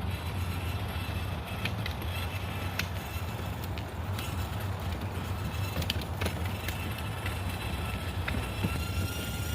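Child's battery-powered ride-on toy car rolling along a path, its plastic wheels and motor making a steady low rumble, with scattered light ticks.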